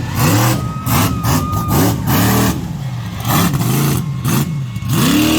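Monster truck engine revving up and down in short repeated blips, about one to two a second, loud throughout.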